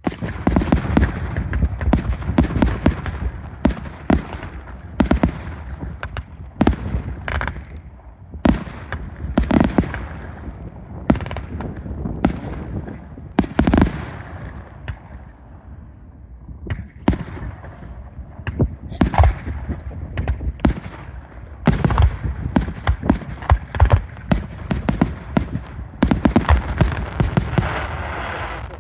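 Fireworks display: a rapid, irregular series of aerial shell bursts and bangs over a continuous rumble and crackle, easing briefly about halfway through before the bangs pick up again.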